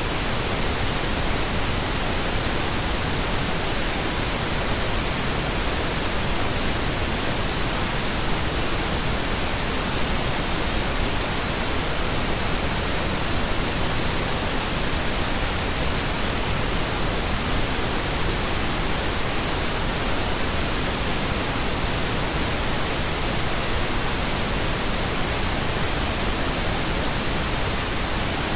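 Steady, unbroken pink noise: an even hiss spread across all pitches with no changes or events.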